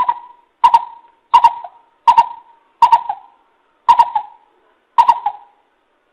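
Coucal (bìm bịp) calling: a series of seven deep hooting notes, each about half a second to a second after the last.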